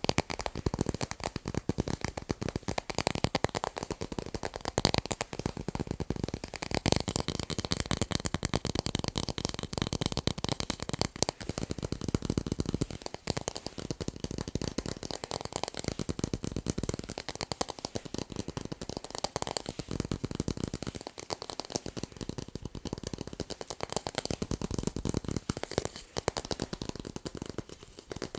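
Fast, continuous tapping on tape: a dense rattle of quick taps with no pause.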